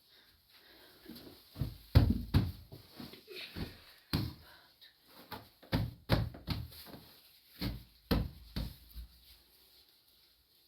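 A series of irregular knocks and thuds, the loudest about two seconds in, with clusters again around four, six and eight seconds.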